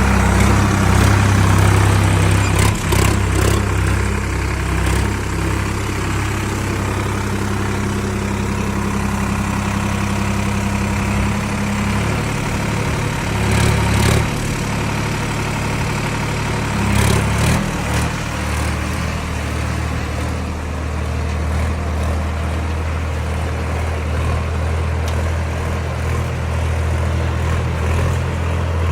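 Sonalika 745 tractor's three-cylinder diesel engine running steadily under load while pulling a disc harrow. The engine note shifts a couple of times around the middle, with brief louder rattles.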